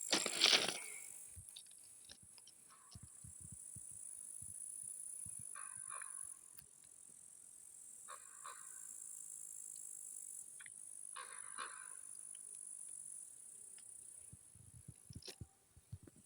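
Countryside ambience while no train passes: a steady high insect chirring, with a bird giving a short call about every three seconds. A loud brief rustle or gust sounds in the first second.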